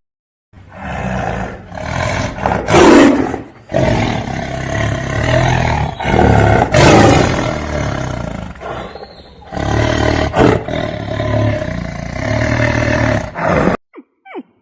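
A big cat roaring repeatedly in several long, loud bouts, starting about half a second in and cutting off shortly before the end.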